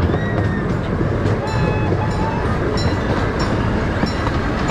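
Miniature park railroad train running along its track, heard from aboard as a steady rumble of wheels on rails. A few short high-pitched squeaks sound in the middle and later on.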